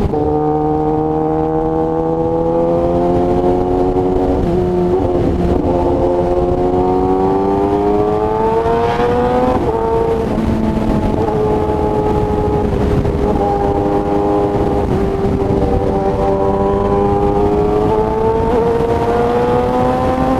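2017 Kawasaki ZX-10R's inline-four engine running through an SC Project exhaust under way. Its pitch climbs slowly, breaks at gear changes about four and nine and a half seconds in, holds steady for a while, then climbs again near the end.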